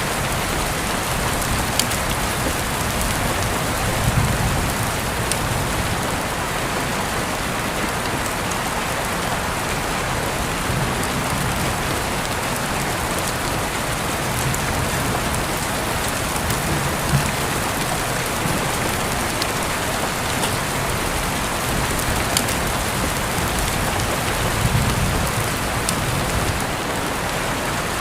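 Steady rain falling and pattering on a surface, with scattered sharper drop hits and a few brief low swells.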